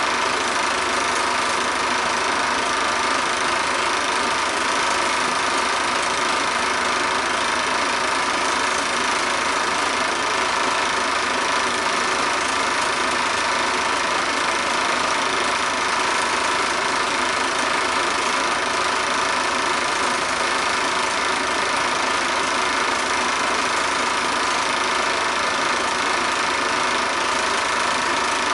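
A steady, unchanging mechanical drone that does not vary.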